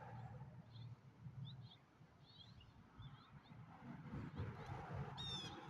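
Small birds chirping faintly and intermittently outdoors, with a low rumble underneath; near the end a goose honks loudly.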